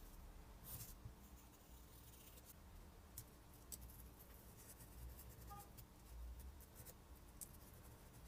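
Faint scratching with a few light clicks and taps scattered through, against a quiet room.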